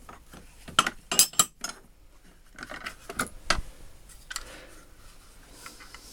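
Steel tools clinking and clicking against one another as they are picked up and moved about in a toolbox drawer, a handful of sharp clinks in the first few seconds, then lighter taps.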